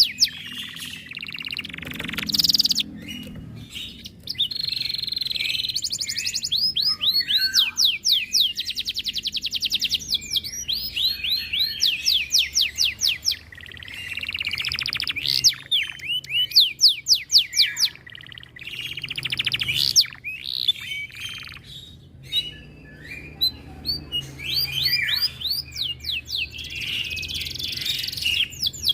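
Domestic canary singing: runs of fast repeated notes and rolling trills, each run lasting a second or two, separated by brief pauses.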